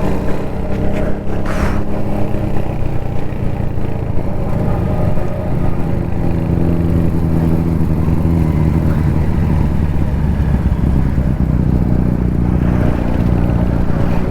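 Kawasaki Z900 inline-four engine and exhaust running at a steady, even pitch as the motorcycle rides along.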